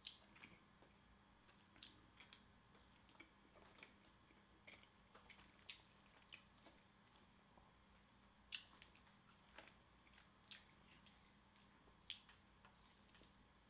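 Faint close-miked eating of soft, sauce-covered loaded fries: chewing with scattered soft mouth clicks and smacks, the sharpest about eight and a half and twelve seconds in.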